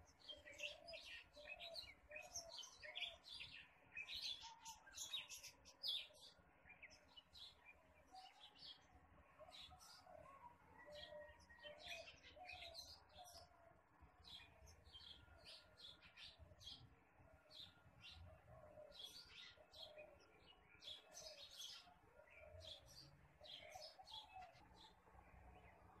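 Several small birds chirping and twittering in quick, overlapping high calls, with lower repeated call notes running beneath them.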